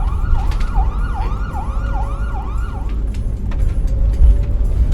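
Emergency vehicle siren sweeping rapidly up and down, about two and a half cycles a second, for about three seconds, over a loud low rumble.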